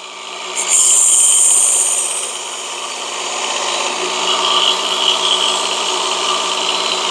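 Work Sharp Ken Onion Edition belt sharpener running on its lowest speed, with a Damascus steel blade drawn across a fine abrasive belt to polish the edge. A loud hissing grind comes from about half a second in to about two seconds, then the motor and belt run on with lighter contact.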